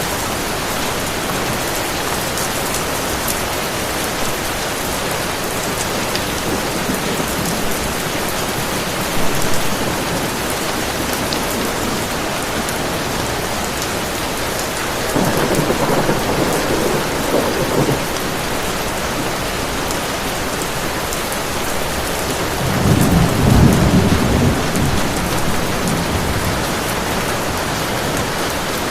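Heavy rain falling steadily, with two low rumbles of thunder: one a little past the middle and a louder one about three-quarters of the way through.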